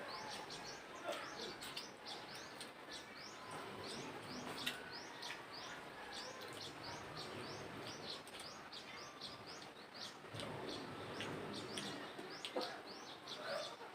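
Small birds chirping steadily in the background, short high chirps repeating two or three times a second, with a few faint clicks.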